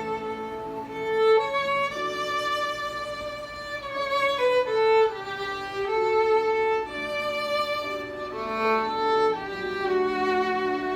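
Violin playing a slow melody of long held notes that step up and down in pitch.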